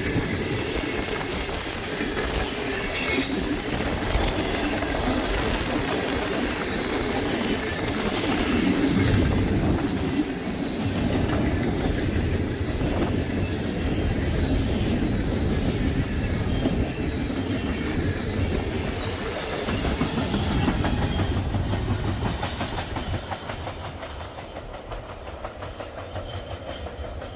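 Cars of a loaded freight coke train rolling past on the rails. The sound fades away over the last few seconds as the end of the train goes by.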